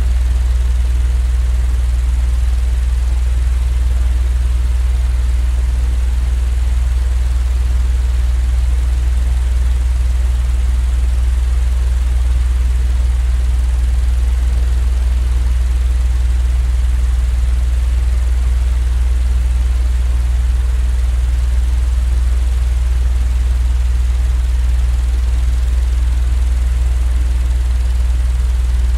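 Steady, deep machine drone with a faint hiss above it, unchanging throughout, played as a continuous white-noise sleep sound.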